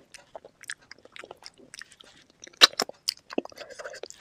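Close-miked eating: a person chewing and biting, with a run of sharp, wet clicks and crunches, the loudest cluster a little over halfway through.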